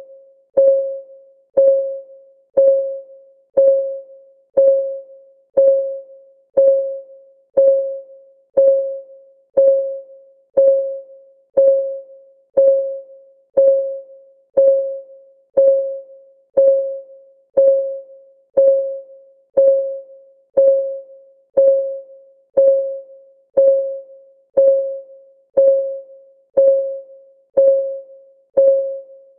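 Countdown timer's ticking: a single pitched tick, like a short struck note, once a second, each one dying away within about half a second.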